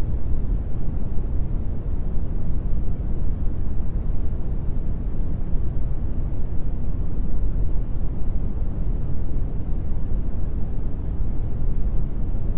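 Steady brown noise: an even, deep hiss, strongest in the bass and thinning out toward the treble.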